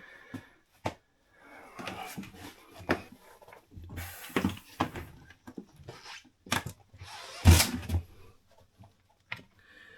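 Clicks, knocks and rustling as cabin floorboards and access panels are handled in a sailboat's cabin, with one heavy thunk about seven and a half seconds in.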